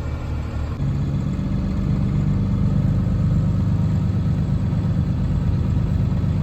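Box truck's engine running steadily, a deep engine sound that steps up in level about a second in and then holds.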